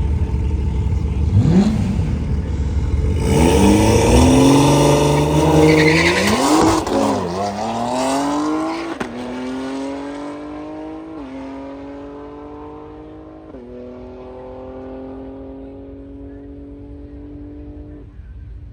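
Car engine on a drag strip: a quick rev, then a hard launch at full throttle, the pitch climbing and dropping at each of about four upshifts as the car pulls away down the track and fades.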